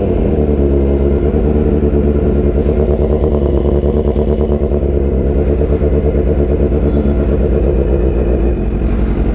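Suzuki GSX-R 750's inline-four engine idling steadily just after being started.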